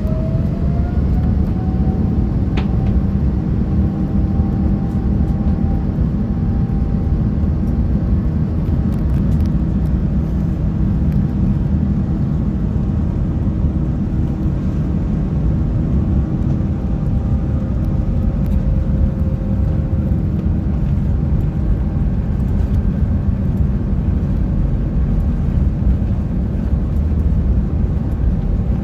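Cabin noise of an Airbus A330-900neo powered by Rolls-Royce Trent 7000 engines: a loud, steady low rumble of engines and airflow. An engine whine rises in pitch just before the start and then holds steady.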